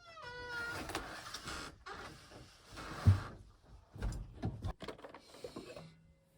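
Scraping and rustling handling sounds with several knocks, the loudest about three seconds in, after a brief pitched sound that glides down at the start.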